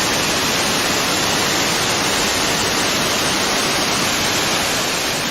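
Waterfall rushing as a steady, even roar of falling water, beginning to fade out near the end.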